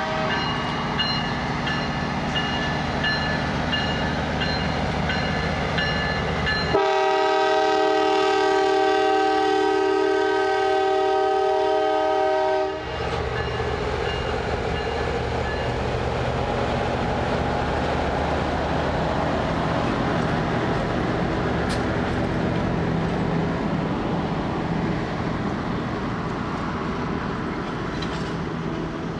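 Norfolk Southern business train passing, its F-unit locomotives sounding a chord air horn: faint at first, then a loud steady blast about seven seconds in that lasts some six seconds. After the horn, the passenger cars roll past with a steady rumble and clatter of wheels on rail.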